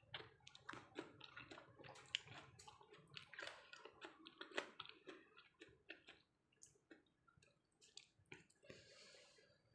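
Faint close-up chewing of cooked sweet potato leaves with sambal: many small wet mouth clicks and smacks, thinning out after about six seconds, with a short breathy hiss about nine seconds in.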